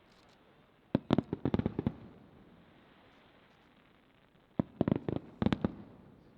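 Aerial fireworks shells bursting in two rapid volleys of sharp bangs, one about a second in and another near the five-second mark.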